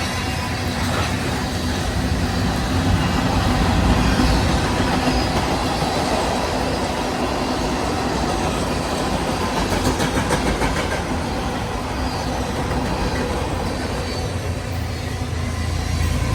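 Freight train cars rolling past, a steady rumble and rattle of steel wheels on the rails.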